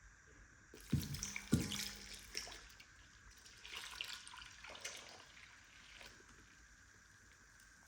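Water trickling and splashing, with two dull knocks about a second in.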